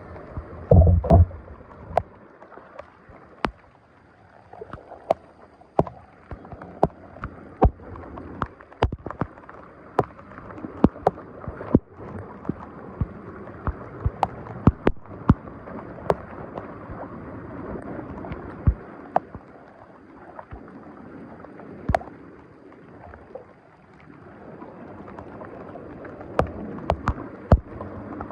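Water rushing and gurgling, broken by many sharp splashes and knocks. A few heavy low thuds come about a second in.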